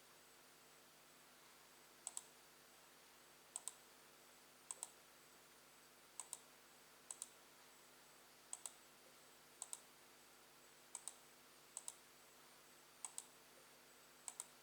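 Light clicking over near-silent room tone: eleven sharp clicks, each a quick double tick, about every second or so.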